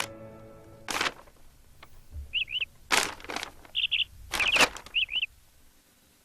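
Cartoon sound effects: a bird chirping in short paired chirps several times, with a few brief noises between them.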